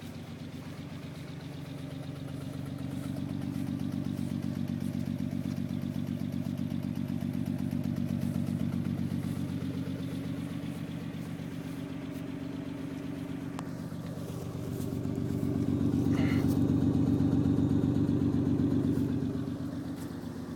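Nissan 300ZX's twin-turbo V6 engine running steadily, getting louder a couple of seconds in and louder again near the end before easing back.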